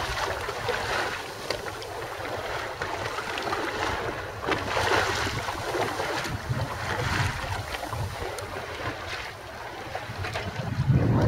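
Gale-force wind buffeting the microphone over open sea, with waves rushing and splashing; the gusts swell and ebb, and a stronger gust comes near the end.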